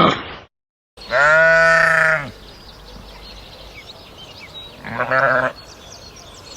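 A sheep or goat type animal bleating, told apart only broadly: a tail of roaring cuts off abruptly at the start. About a second in comes one long, steady bleat, then near the end a shorter, wavering bleat over a low background with faint high chirps.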